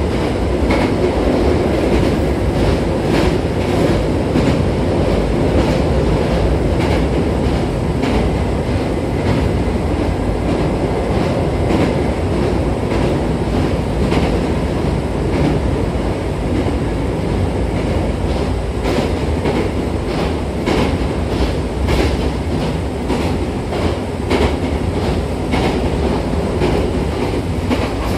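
Hankyu electric commuter train running at speed, heard from inside the car: a steady low rolling rumble with repeated clicks of the wheels over rail joints, coming thicker in the second half.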